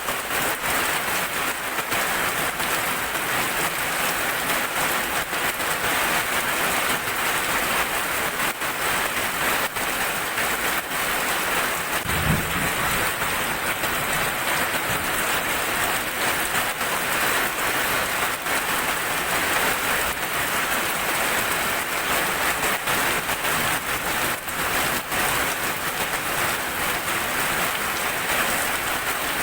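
Heavy rain falling steadily: a dense, even hiss with many separate drops splattering. There is a brief low rumble about twelve seconds in.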